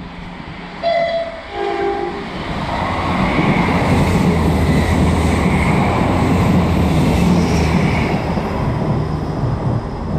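A passenger train sounds two short horn notes about a second in. It then passes close by, its rumble and wheel noise on the rails building to a steady loud run that is still going at the end.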